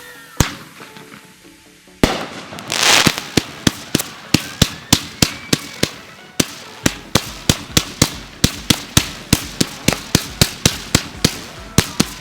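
Consumer fireworks going off: a single bang about half a second in, a crackling burst at about two seconds, then a rapid, even string of sharp bangs, about three a second, running on to the end. Music plays underneath.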